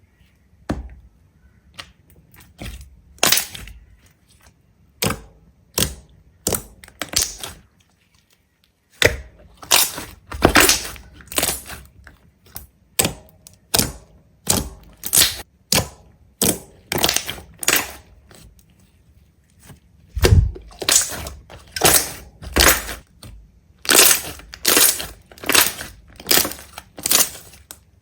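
A series of crisp crunches or cracks, about one or two a second, with a brief pause about eight seconds in.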